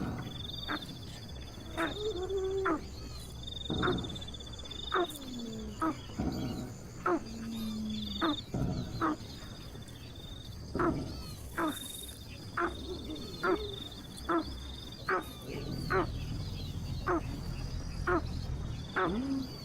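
Wild animal calls: sharp, short calls repeated irregularly about once a second, with several short high trills between them.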